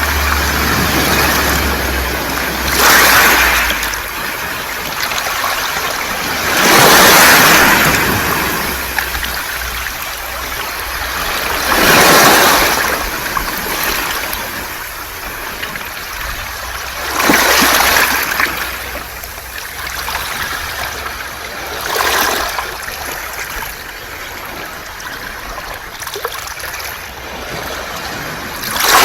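Waves washing over a beach of smooth, round mongdol pebbles: a steady hiss that swells into a loud surge about every four to five seconds as each wave comes in and drags back through the stones.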